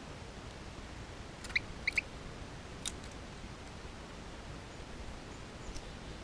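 Three short, sharp bird call notes in quick succession about a second and a half in, then a single sharp tick a second later, over a steady low outdoor rumble.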